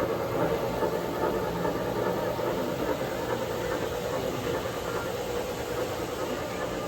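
Model trains running on a layout: a steady rumble and hiss with a low hum underneath.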